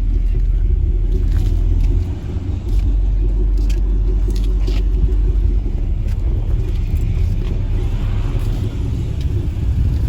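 Heavy bass from a car's stereo system ('bumping'), heard as a loud, steady low rumble with a brief dip about two seconds in.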